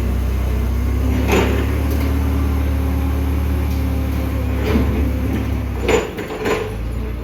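Steady low mechanical hum with a few knocks and clunks over it; the hum cuts off suddenly about six seconds in, just after the loudest knock.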